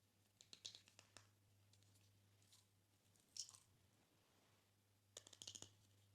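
Slime being squished and mixed by hand, giving faint crackling clicks in three short clusters, near the start, in the middle and near the end.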